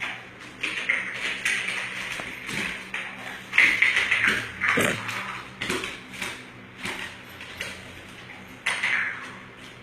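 Irregular clicking and clattering of a small plastic medicine cup being knocked about by a pet playing with it as a toy: short sharp clicks with a slight ring, coming in uneven clusters.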